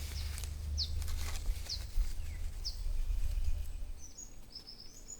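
A bird repeating a short, high, falling chirp about once a second, over a low rumble that stops about four seconds in, with a few brief rustles.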